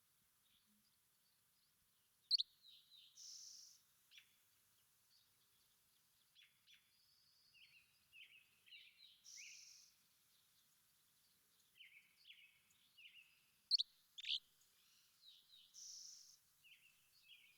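Quiet songbird chirping and calling, with a few loud sharp chirps and a short buzzy call repeated about every six seconds.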